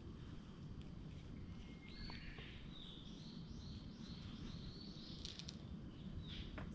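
A songbird singing faintly over a low outdoor rumble: a long whistled note jumps higher about two seconds in, followed by a run of quick repeated notes that ends near the finish.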